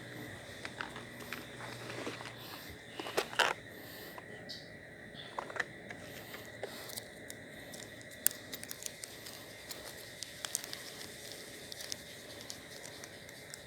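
Small clicks, rustles and scrapes of fishing tackle being handled as a lure is swapped for one of a different colour, with a louder cluster of rustling about three seconds in.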